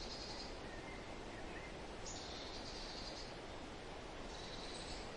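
Hissy outdoor wildlife recording in which a high, buzzy call repeats about every two seconds, with faint chirps in between.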